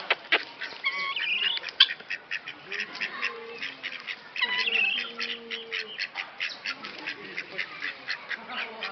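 Birds calling: a dense run of short, rapidly repeated calls throughout, with longer wavering calls about one second in and again near the middle.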